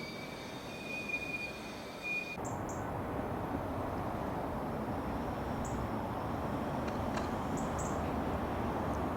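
Electric multiple-unit train: a steady high-pitched whine for the first couple of seconds, then, after an abrupt change, a steady rumbling run that grows slightly louder. Short bird chirps are heard now and then.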